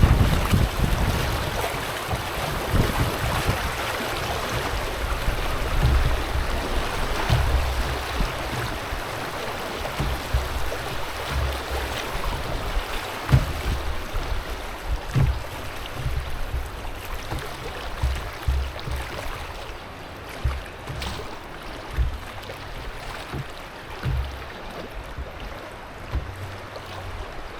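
Rushing, splashing river water around a canoe on the move, with wind on the microphone, low thumps and a few sharp knocks; the water noise eases somewhat in the last third.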